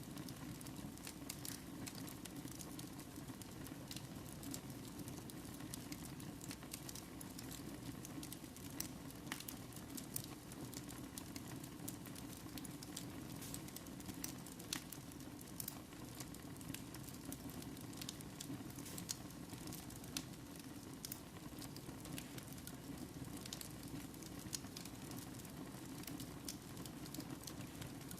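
Fire burning in a fireplace, crackling with frequent small sharp pops over a steady low rush of the flames.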